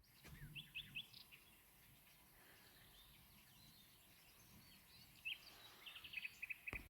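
Faint outdoor quiet with a small bird chirping in short quick series: a few chirps about half a second in and a longer run near the end.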